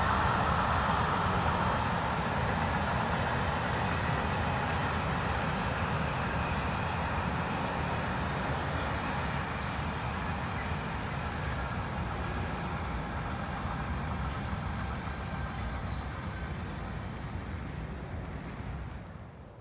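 A train rolling past: a steady rumble of wheels on rail that slowly fades as it draws away, then drops off sharply near the end.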